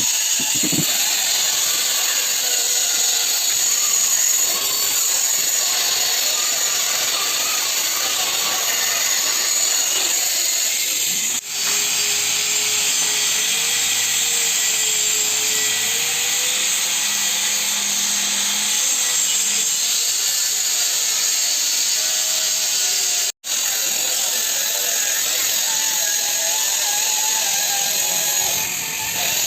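Electric drywall sander running steadily with a high whirring hiss. The sound breaks off for an instant twice, about eleven seconds in and again a little after twenty-three seconds.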